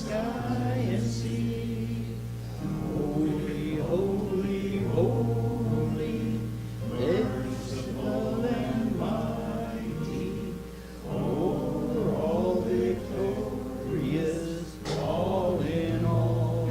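Congregation singing a hymn together over held accompaniment notes, in phrases that pause briefly about every four seconds.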